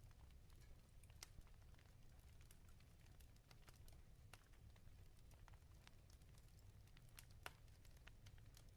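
Wood fire crackling in a fireplace: faint, irregular pops and snaps over a low steady rumble, with the sharpest pop about seven and a half seconds in.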